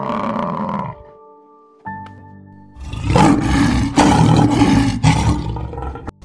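A lioness roaring, loud and rough, for about three seconds starting near the middle. Before it there is a short animal call and a brief musical chime.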